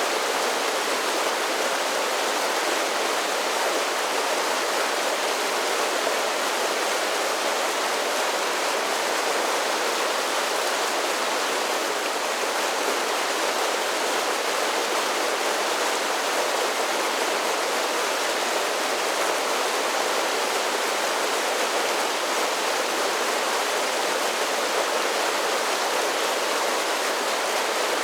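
Mountain creek rushing down a series of small falls: a steady, even rush of water with no deep rumble.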